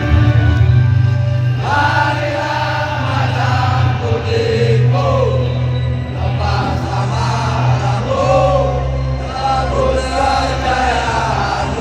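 A group of voices singing a football club's victory anthem in chorus, over a steady low sustained accompaniment.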